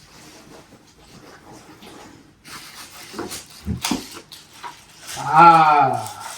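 Light clicks and knocks of plastic vacuum parts being handled and fitted together, then about five seconds in a man's drawn-out wordless groan that falls in pitch, the loudest sound.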